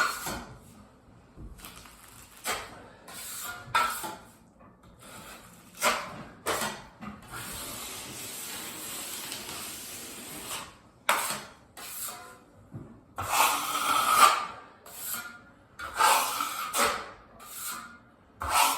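Drywall knife spreading and scraping joint compound over fiberglass tape on a drywall patch, in a run of short strokes with one longer steady scrape of about three seconds near the middle.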